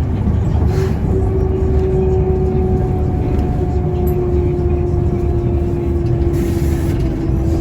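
Mercedes-Benz O405N2 city bus under way, heard from inside: a steady low engine and road rumble with a whine that slowly falls in pitch. A short hiss comes about six and a half seconds in.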